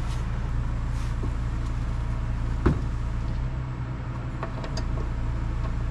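Electric fan running with a steady low hum, and a single sharp click about halfway through.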